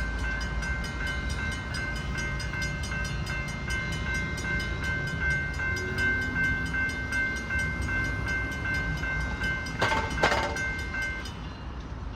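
Safetran crossing bell ringing at about four strikes a second, then stopping about 11 seconds in; the bell is starting to wear from long activations. A low rumble runs underneath, with a short clatter just before the bell stops.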